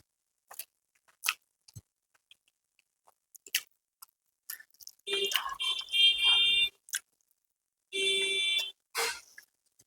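Close-up eating sounds: scattered wet mouth clicks and smacks of chewing. Over the second half comes a high, shrill sound at a steady pitch, about two seconds long, and then a shorter one; it is louder than the eating.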